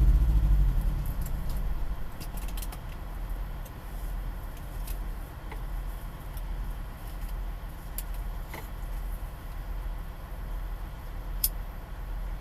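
A passing vehicle's engine fades away over the first two seconds. After that a vehicle engine idles as a steady low rumble, with a few faint clicks.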